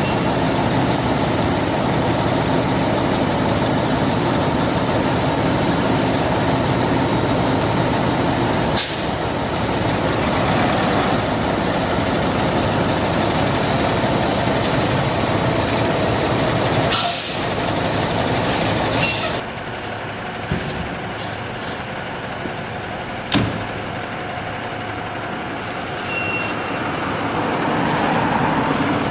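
Fire truck's diesel engine running, with several short sharp air-brake hisses over the drone.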